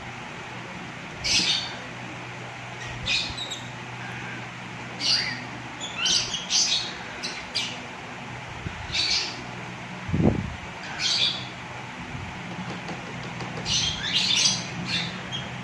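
Young hand-reared birds giving short, repeated begging calls, roughly one a second at irregular spacing, while being fed with a syringe. A steady low hum runs beneath, and there is one low thump about ten seconds in.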